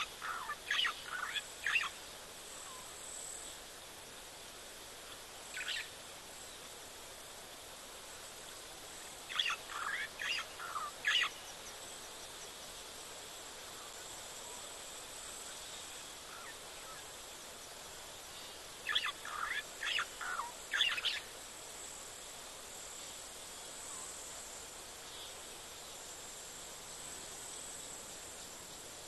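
A bird calling in three bursts of several quick notes, roughly ten seconds apart, with a single note between the first two. Underneath is a steady outdoor hiss and a faint, steady high tone.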